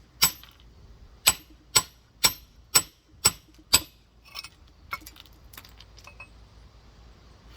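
Rock hammer striking a large geode: seven sharp blows about two a second with a metallic ring, then a few lighter taps.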